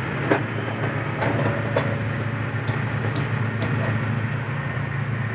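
An engine running steadily with a low hum, with half a dozen sharp clicks spread over the first few seconds.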